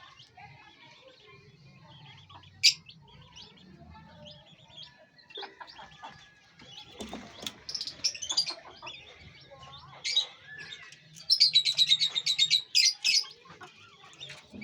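Small birds chirping on and off, with a sharp loud chirp or click about two and a half seconds in and a fast, loud run of chirps a little past the middle.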